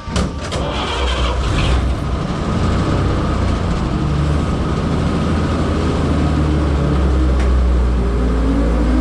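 Old truck's 235 straight-six engine pulling down the road through its manual four-speed, a steady low drone with road noise. A few sharp clacks come in the first second, and near the end the engine note climbs as it speeds up.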